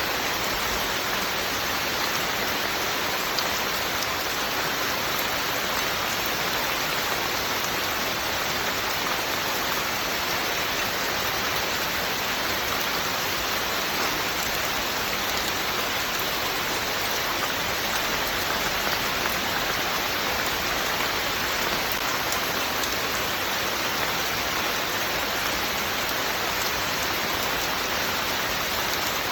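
Steady rain falling, an even hiss of drops on a surface without pauses or changes.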